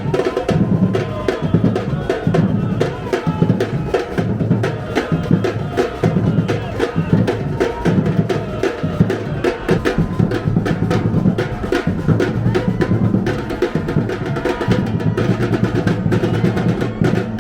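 Music made of fast, steady drumming, many strikes a second with deep bass-drum hits under them.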